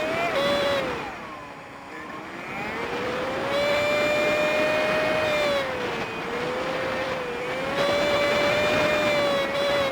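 Honda Super Cub 50's small single-cylinder engine running on the road, with wind and road noise. Its whining note drops about a second in as the bike slows, then climbs back and holds steady.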